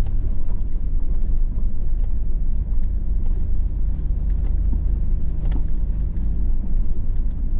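Hummer H2's V8 engine and drivetrain rumbling steadily at low speed on a rough trail, heard from inside the cabin, with a few faint knocks and rattles.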